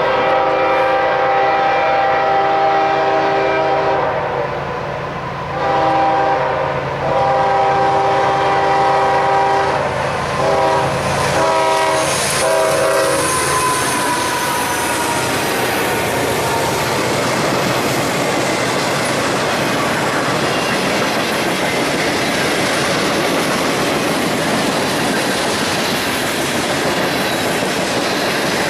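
Diesel locomotive air horn sounding a chord in several long blasts, then a few short ones, as a train comes up to a road crossing. After that the train rolls past, its wheels clacking over the rail joints.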